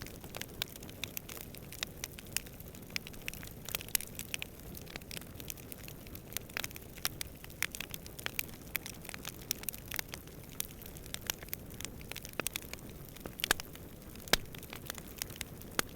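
Wood campfire crackling, with dense, irregular pops and snaps, a few of them sharper and louder. A steady low rush of distant wind runs beneath.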